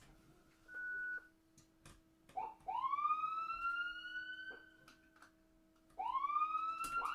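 Siren sound effect: after a short beep, a siren tone winds up in pitch and holds, then fades, and winds up again near the end.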